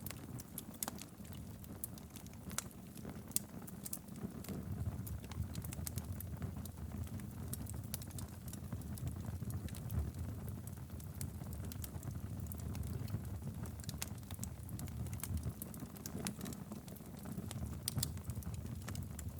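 Wood fire burning steadily in a fireplace, a low rumble of flames with frequent sharp, irregular crackles and pops.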